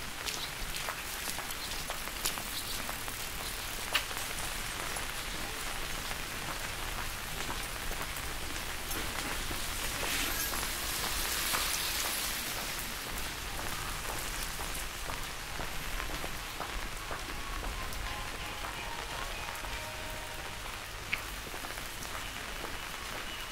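Steady rain falling, an even hiss of drops with a few sharper taps; the rain swells briefly about ten seconds in.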